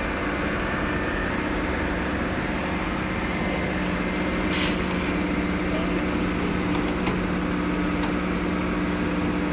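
Heavy diesel engine of a log loader running steadily at a constant speed, with one faint click about four and a half seconds in.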